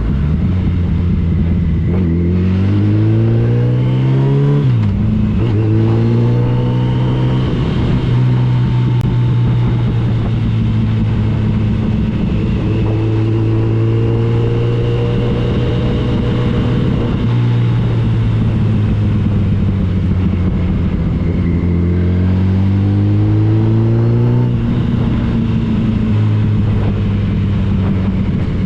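Motorcycle engine pulling through the gears: its pitch climbs, drops sharply at a shift, climbs again and then holds steady at cruising speed, with one more rise and settle late on. A steady rush of wind noise runs underneath.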